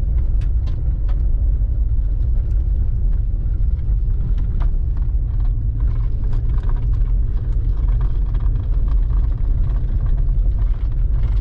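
Car driving on a dirt road, heard from inside the cabin: steady low rumble of engine and tyres, with scattered small clicks and rattles.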